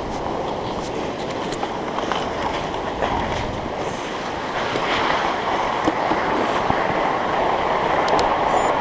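Fat bike's wide studded tyres rolling over a frozen, rocky trail: a steady rumble with scattered clicks and rattles, growing a little louder about halfway through.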